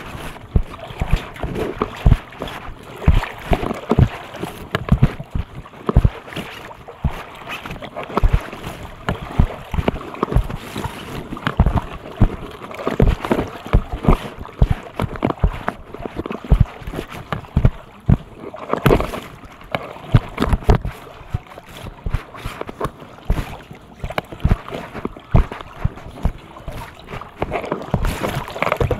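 Floodwater sloshing and splashing, with many irregular low thumps throughout.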